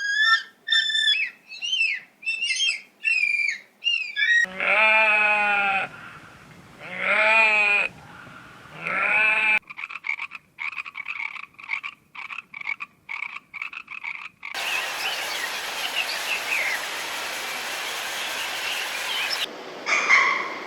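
A string of different animal calls, one clip after another: about six short, high chirps; then three long, wavering calls; then fast repeated croaking pulses; then a hissy stretch with faint high calls.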